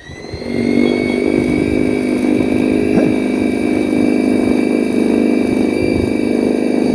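Greenworks 80-volt battery-powered snow shovel running, its electric motor coming up to full speed in the first second and then holding a steady whine.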